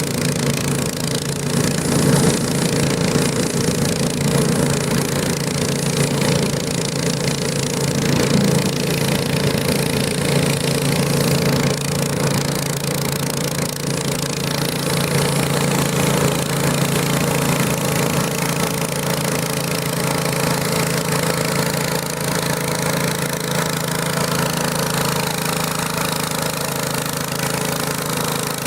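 Garden tractor engine running steadily at a constant speed, its pitch holding level, with a slight swell in loudness a couple of times early on.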